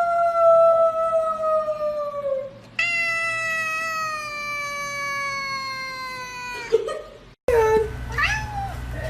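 A cat yowling in two long drawn-out calls, each held for several seconds and slowly falling in pitch. After a short break, shorter meows that slide up and down follow.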